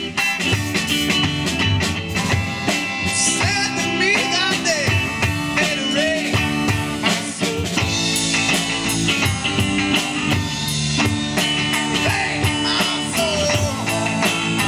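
Live band playing a blues-rock song: electric guitars, bass and hand percussion keeping a steady beat, with a melody line bending up and down in pitch.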